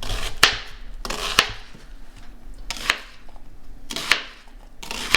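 A kitchen knife slicing through a vegetable and knocking on a cutting board, several sharp strokes at an uneven pace, some in quick pairs.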